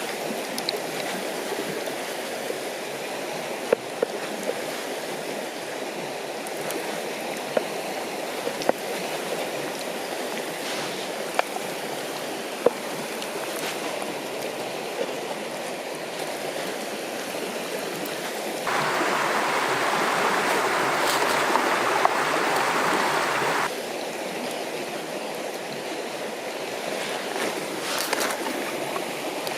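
A river flowing steadily, with a few sharp clicks scattered through it. The water sound grows louder and brighter for about five seconds past the middle, starting and stopping abruptly.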